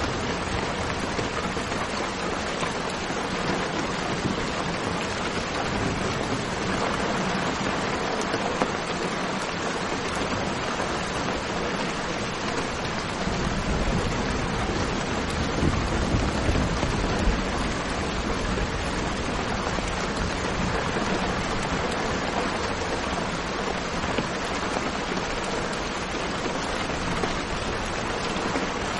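Steady rain falling, an even hiss spread across the range, with a deeper rumble in the low end swelling up about halfway through.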